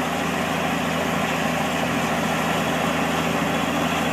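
A vehicle engine running steadily at an even pitch, with no revving or change in speed.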